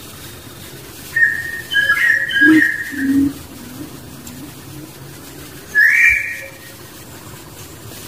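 Bird calling: a quick run of short, clear whistled notes about a second in, then one more whistled note about six seconds in, with a faint ambient hum underneath.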